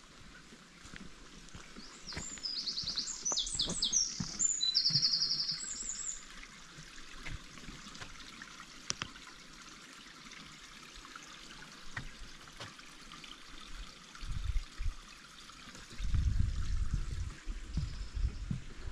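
A songbird singing several quick, high trills between about two and six seconds in, over a faint steady outdoor hiss. Low rumbling knocks come in near the end.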